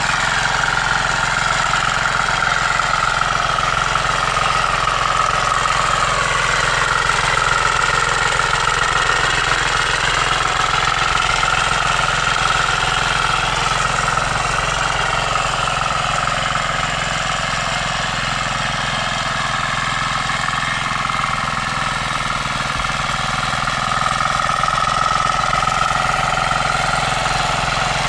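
Engine of a 9.5 hp power weeder running steadily, its pitch drifting slightly up and down.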